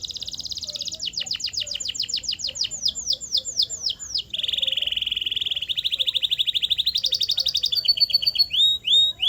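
Canary singing a long song of rapid rolling trills: a fast roll, a run of falling whistled notes, a lower roll about four seconds in, then a higher trill and rising notes near the end.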